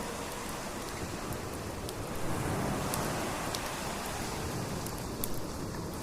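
Crackling fire: a steady hiss with scattered sharp pops and snaps.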